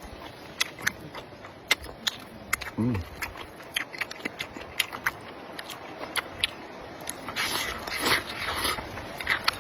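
Close-miked eating: wet chewing with many sharp mouth clicks and smacks, a short pitched sound about three seconds in, and a denser stretch of noisy mouth sound from about seven to nine seconds.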